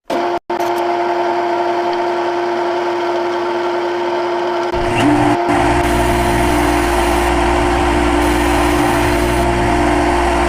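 CNC machine running with a steady, high machine hum. About five seconds in, a deeper low rumble joins it and holds.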